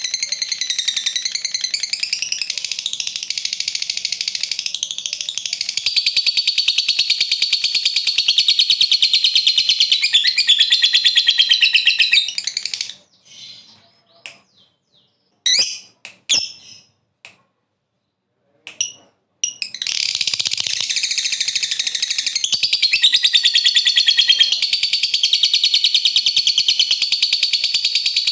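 Lovebird's long, fast chattering trill (ngekek panjang), a shrill unbroken run of notes. About thirteen seconds in it breaks off into a few short chirps, then starts again about twenty seconds in.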